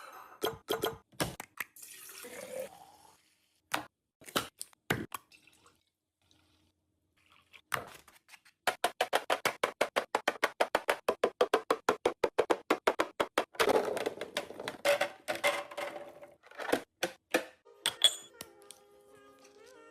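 Containers and packaging handled while restocking a fridge: scattered knocks and clicks as items are set down. From about nine seconds in, a quick, even run of strokes, about seven a second, lasts roughly five seconds.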